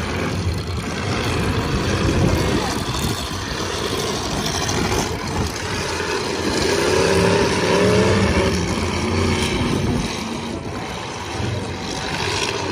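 Demolition derby car engines running and revving across the arena, with pitch rising and falling around the middle.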